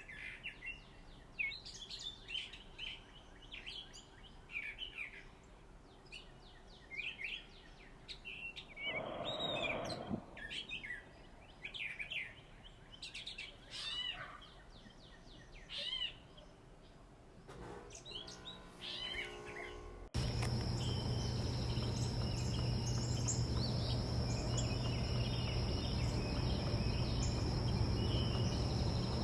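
Small backyard birds chirping and calling in quick, repeated short notes, with a brief rustling noise near the middle. About two-thirds of the way in, the sound changes abruptly to a steady high insect drone over a low hum.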